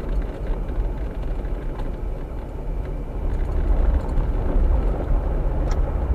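Jeep driving slowly, a steady low rumble of engine and rolling noise with no words over it.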